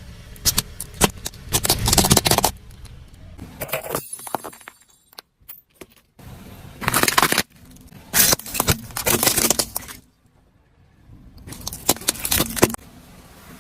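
Brittle objects crunching and cracking as they are crushed, in several bursts of crackling and snapping separated by abrupt short silences.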